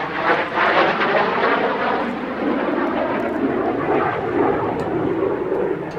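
Jet noise from a BAe Hawk Mk 51's single Rolls-Royce Turbomeca Adour turbofan as the trainer flies by. The sound is steady and loud, and its pitch drops lower after the first couple of seconds.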